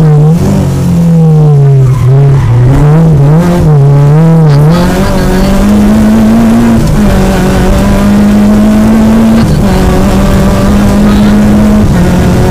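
Peugeot 205 GTI rally car's four-cylinder petrol engine heard from inside the cabin, revving up and down quickly for about five seconds as the car takes a tight bend. It then pulls at steadier, higher revs, with a few short dips in the engine note.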